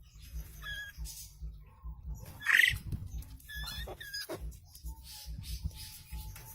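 Short, high-pitched animal squeaks and calls, several in a row, the loudest about two and a half seconds in.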